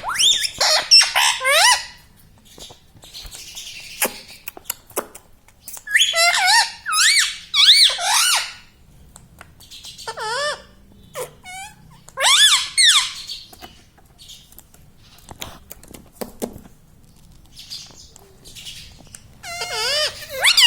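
Indian ringneck parrot vocalizing in several high-pitched bursts of a second or two, with pauses between, each call wavering up and down in pitch.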